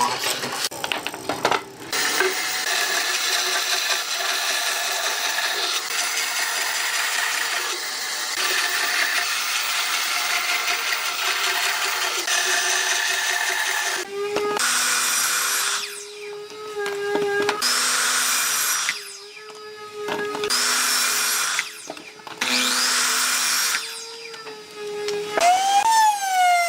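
Electric power tool working wood. It runs steadily for about twelve seconds, then makes repeated short cuts with the motor's hum between them, and winds down in pitch near the end.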